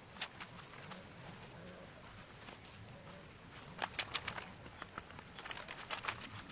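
Two clusters of sharp clicks and snaps, about four and six seconds in, over a faint steady high-pitched background.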